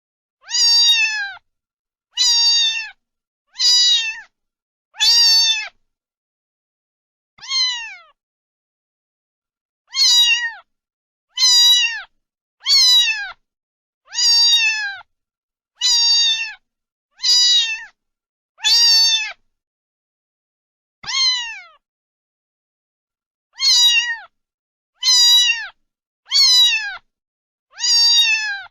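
Domestic cat meowing again and again, about eighteen short, fairly high-pitched meows, each falling in pitch at its end, separated by pauses of half a second to two seconds.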